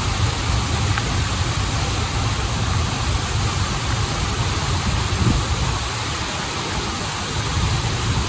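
Waterfall and stream water rushing steadily, with a deep low rumble under a hissing wash.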